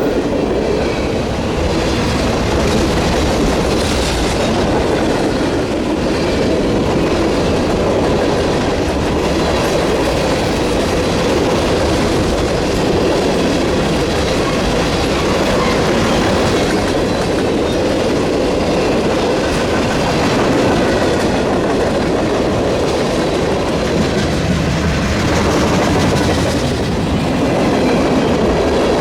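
A train passing at steady speed, its cars' wheels running on the rails in a loud, continuous rumble.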